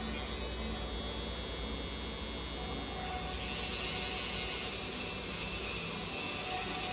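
Tattoo machine running steadily while tattooing.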